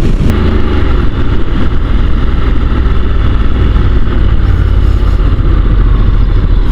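Honda NC750 DCT's parallel-twin engine running steadily under way, heard from the rider's position mixed with a heavy low rush of wind and road noise.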